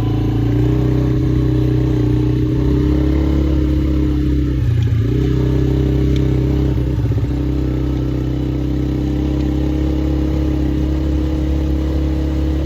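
Polaris quad bike engine running at a steady pace while driving along a track, its note dipping briefly about five seconds in before settling back.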